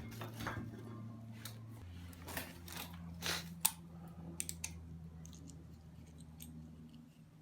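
Crunching and crackling handling noises in several short strokes, the sharpest about three and a half seconds in, then a few light clicks, over a steady low hum; this is handling during fire lighting with a fire starter.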